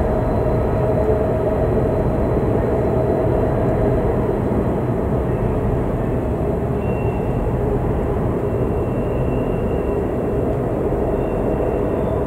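Norfolk Southern freight train rolling past on a tight curve: a steady, loud rumble of wheels on rail, with a faint high squeal from the wheels now and then.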